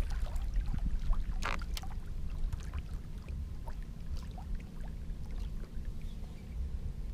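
Sounds of a kayak on the water: a steady low rumble with scattered small knocks and clicks.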